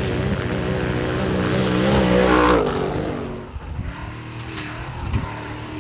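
Off-road race truck engine running hard, the revs wavering up and down, loudest about two and a half seconds in, then dropping away to a quieter level about a second later.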